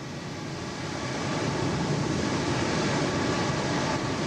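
A steady low rumbling noise that swells slightly over the first second and then holds even.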